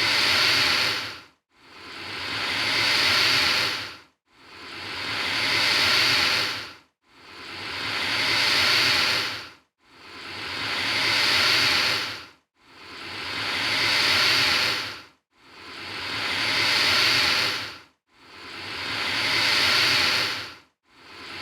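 Alligator hissing: a breathy hiss repeated about every three seconds, each one swelling in loudness and then cutting off abruptly.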